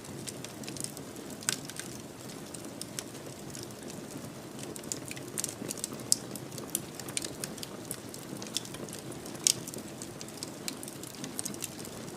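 Wood fire burning in a fireplace: a steady low flame rumble with frequent sharp crackles and pops, two louder pops about six and nine and a half seconds in.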